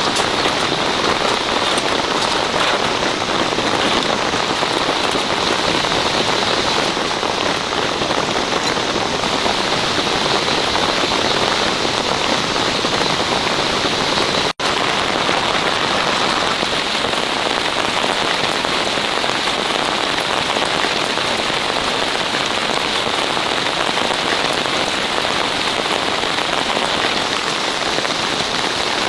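Steady heavy rain pattering on surfaces. The sound cuts out for an instant about halfway through.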